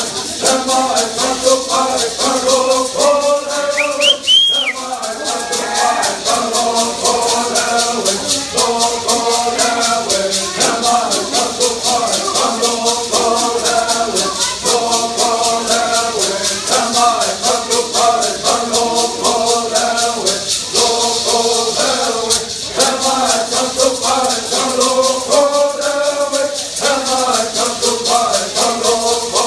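Bird singers chanting in unison to the steady shaking of hand rattles, which in this song tradition are typically gourd rattles. A brief whistle rises and falls about four seconds in.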